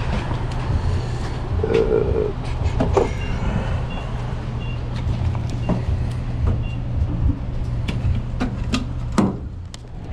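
Motor vehicle engine running steadily, with scattered clicks and knocks and a few faint short high beeps. A sharp knock comes near the end, after which the low hum briefly drops away.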